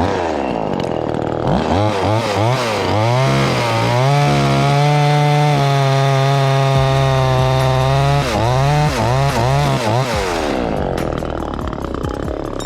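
Chainsaw revving in quick blips, then held at full throttle for about four seconds while cutting into a maple limb, revved again, and dropping back toward idle near the end.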